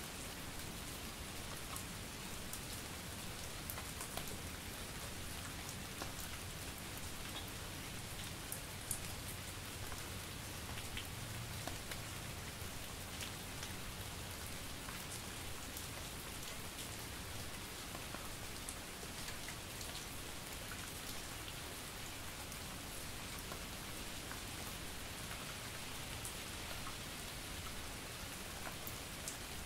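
Steady light rain and drizzle falling on surfaces, an even patter with many scattered small drip ticks.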